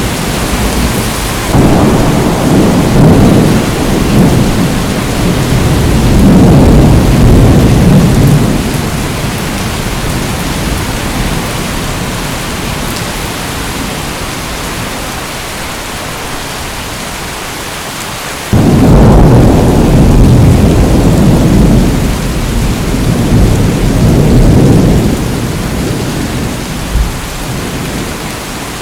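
Steady heavy rain with two long rolls of thunder: the first rumbles in a couple of seconds in and fades after several seconds, and the second breaks in suddenly just past halfway and rolls on for several seconds.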